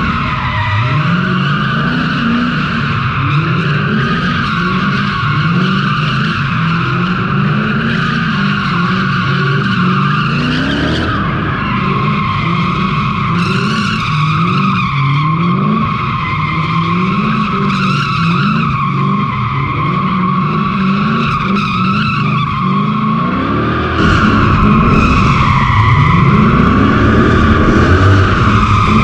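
Straight-piped Toyota 3UZ V8 drift car revving up and down in a steady rhythm, about once every second and a half, with the tyres squealing continuously as it slides on a slippery floor. The sound gets louder about 24 seconds in.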